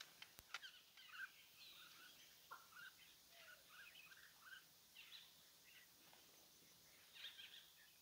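Faint, scattered chirps of small birds, with a single sharp click about half a second in.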